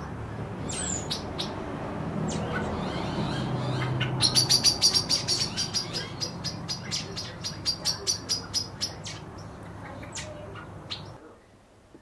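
Small bird chirping: a fast run of short high chirps, about five a second, starts about four seconds in and tails off by about nine seconds, with scattered single chirps before and after. A steady low background hum runs under it and cuts off near the end.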